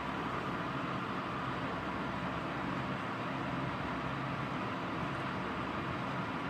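Steady hiss of heavy rain, even throughout, with no thunderclap.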